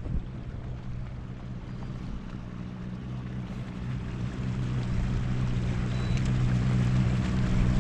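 A boat motor running with a steady low hum that grows gradually louder from about halfway through.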